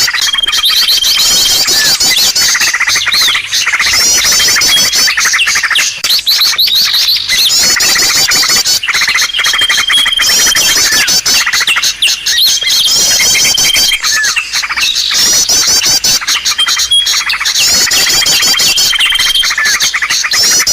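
Bird-lure recording for small birds: many small birds' chirps and trills layered into a dense, continuous chatter, with a steady held whistle note that comes back every four to five seconds as the loop repeats.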